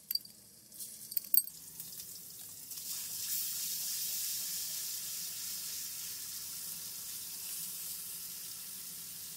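Ginger-garlic paste sizzling in hot ghee in a karahi as it lightly roasts, a steady hiss that builds up about two to three seconds in. In the first second or so there are a few light clinks of the metal spatula against the pan.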